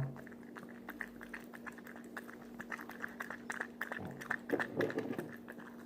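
A dog lapping milk: a quick, steady run of small wet clicks, several a second.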